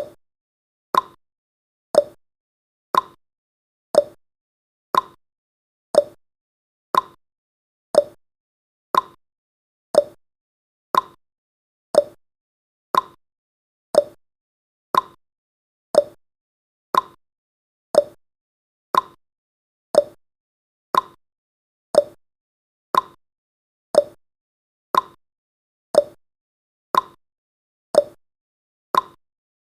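Countdown timer's ticking sound effect: a short, sharp tick once a second, each fading quickly, marking the seconds as they count down.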